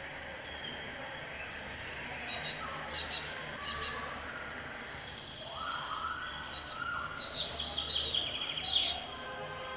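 Early-morning forest birdsong: a bird sings two bouts of quick, high, repeated notes, each about two seconds long, with a lower call from another bird between them.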